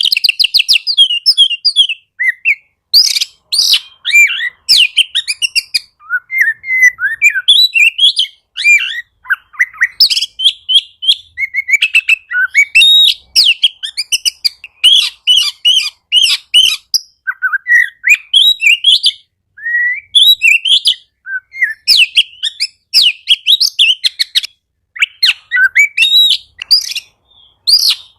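Oriental magpie-robin (kacer) singing a loud, rapid, varied song of quick whistled and chattering notes in short phrases with brief pauses between them.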